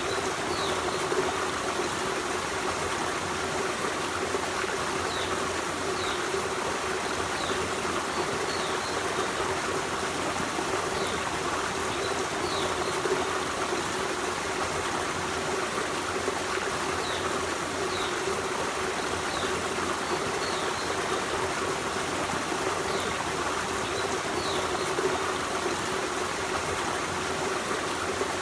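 Forest stream running steadily over rocks, a continuous rushing and babbling. Brief high chirps sound now and then.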